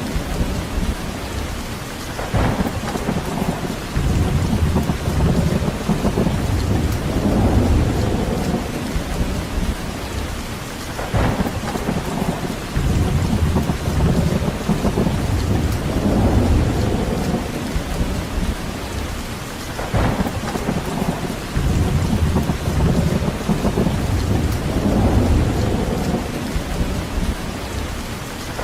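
Steady rain with a low rumble that swells and fades every few seconds, and a short crack about every nine seconds.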